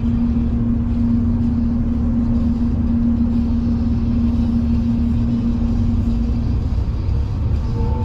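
V/Line passenger train running at speed: a steady low rumble of wheels on rail and running gear, with a steady hum over it that fades out about six and a half seconds in.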